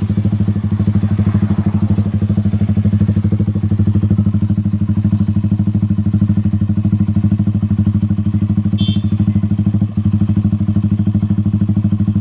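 Yamaha R15 v3's single-cylinder 155 cc engine idling steadily through an aftermarket exhaust, with an even, rapid pulsing beat.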